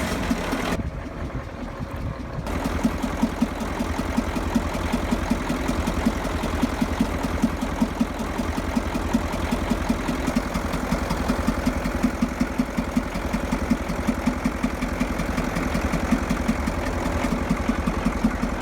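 Caterpillar 3208 V8 marine diesel running steadily with sharp, irregular knocks throughout. It is a knocking port engine that had also given black smoke, run while its fuel lines are cracked cylinder by cylinder to find where the knock comes from.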